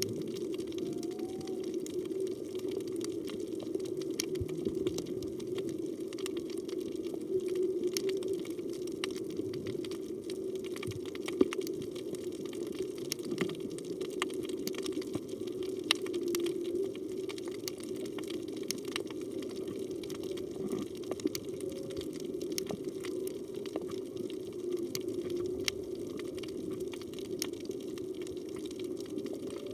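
Underwater reef ambience heard through a camera's waterproof housing: a steady low rush of water with a constant scatter of sharp crackling clicks, and a faint short rising tone about a second in.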